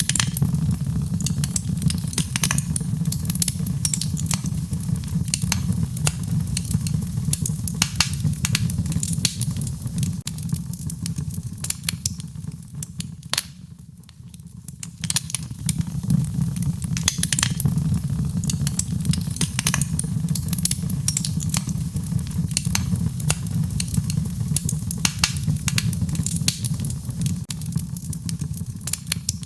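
Wood fire in a fireplace crackling, with many sharp irregular pops and snaps over a steady low rumble. It eases off briefly about halfway through, then picks up again.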